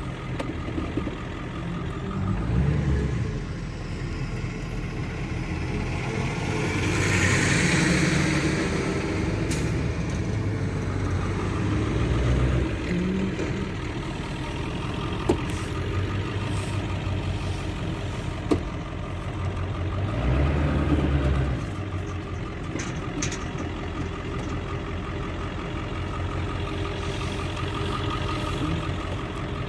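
Engines of heavy farm machinery running steadily during a corn silage harvest, the sound swelling several times, most strongly with a rushing hiss about a quarter of the way in. Two sharp knocks in the middle.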